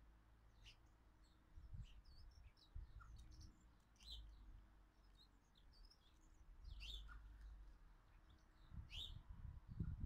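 Faint chirps and short calls of small garden birds, scattered through and a little louder three times, over a low rumble.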